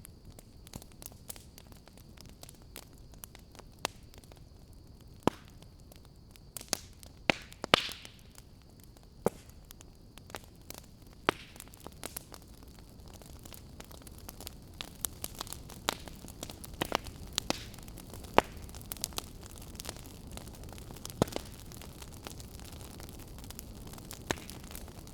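Wood fire in a fireplace crackling, with irregular sharp pops over a low, steady rush. A short hiss comes about eight seconds in, and the pops come more often in the second half.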